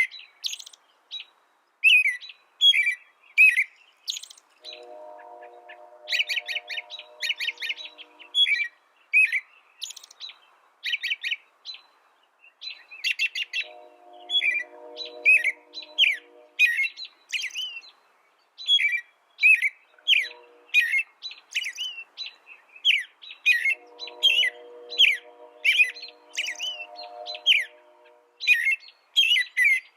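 A small songbird chirping over and over in quick, bright notes with short pauses. In several stretches of a few seconds, a lower steady humming tone sounds under the chirps.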